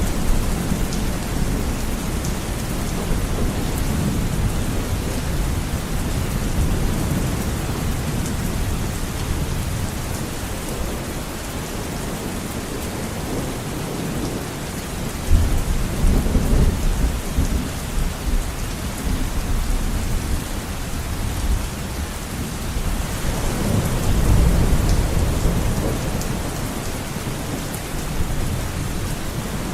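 Heavy rain beating steadily on a window, with deep low rumbles swelling up under it, one starting abruptly about halfway through and another near the end.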